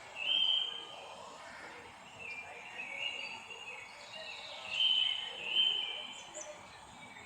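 Wild birds singing: a series of clear, whistled notes of about half a second each, the loudest just after the start and twice around five to six seconds in, over a steady outdoor background hiss.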